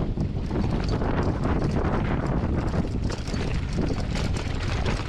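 Strong gusty wind buffeting the camera microphone: a loud, continuous rumble with rapid crackle.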